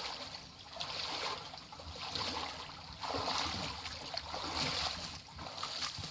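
Lake water splashing and lapping in soft surges about once a second.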